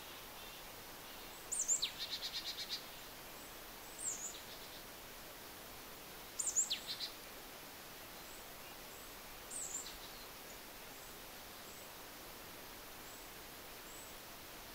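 A songbird sings four short phrases over a steady woodland hiss. Each phrase is a high note sweeping down, followed by a quick run of repeated notes. The first and third phrases are the loudest, and faint high chips come in between.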